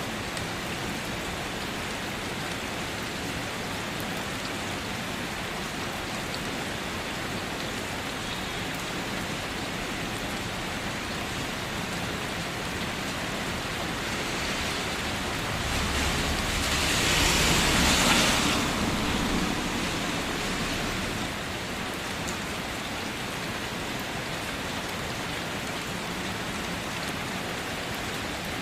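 Steady rain falling on a car, heard from inside. About two-thirds of the way through, a louder rushing swell with a low rumble builds and fades over a few seconds.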